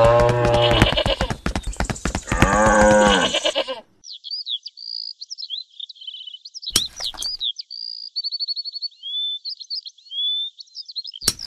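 A goat bleating twice in long, wavering calls. After that comes a steady twitter of high-pitched bird chirps and trills, broken by two sharp knocks.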